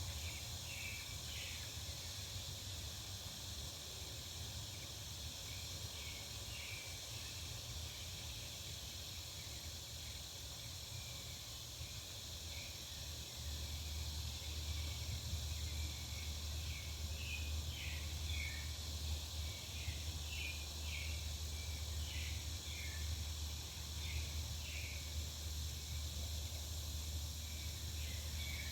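Back-yard ambience: small birds chirping in short, scattered calls over a steady high hiss. A low rumble underneath grows louder about halfway through.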